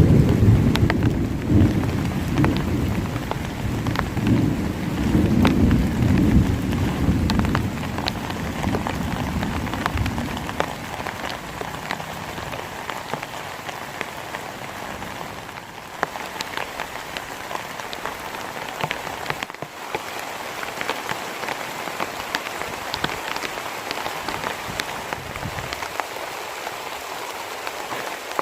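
Heavy rain falling steadily, with many individual drops ticking, and a long low rumble of thunder that is loudest at the start and fades out about ten seconds in.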